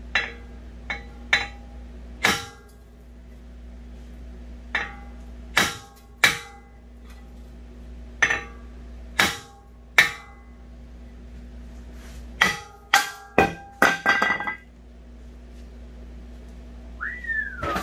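Hammer blows on a steel brake rotor rusted fast to a 2015 Jeep Cherokee's front hub: about fifteen sharp metallic strikes that ring after each hit. They are spaced a second or so apart, then come as a quick flurry about twelve to fourteen seconds in as the rotor is knocked loose.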